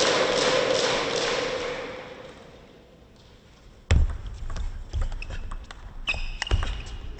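Rhythmic crowd clapping in a table tennis arena fades out. About four seconds in, a sharp thud is followed by scattered thumps and light clicks, with a brief squeak near the end, from play at the table.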